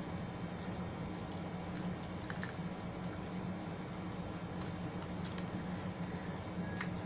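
Close-up eating sounds: soft, squishy chewing with a few faint clicks scattered through, over a steady low hum.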